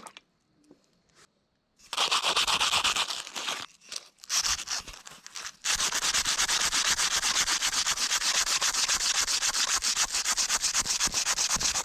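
Sandpaper being rubbed by hand over a motorcycle throttle tube to scrape off dried yellow thread-locker residue. Two short runs of rapid back-and-forth strokes start about two seconds in, then a steady fast run of even strokes from about six seconds on.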